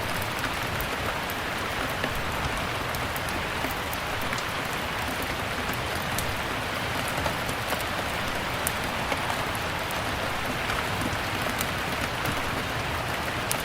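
Steady rain with the scattered sharp pops and ticks of a crackling fireplace mixed through it.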